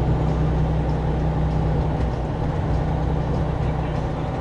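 A semi truck's diesel engine and road noise, heard from inside the cab while cruising at highway speed: a steady low drone.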